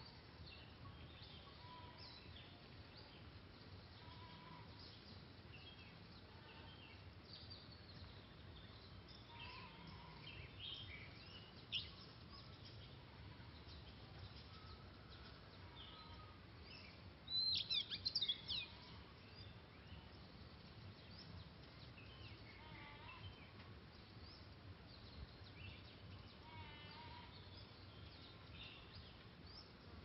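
Birds calling faintly with scattered short chirps, and a brief loud run of quick sweeping song notes about seventeen seconds in.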